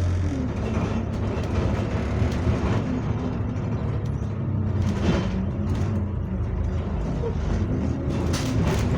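Single-deck bus engine running steadily, heard from on board. Its low drone eases just after the start, with brief rattles and clicks about halfway through and again near the end.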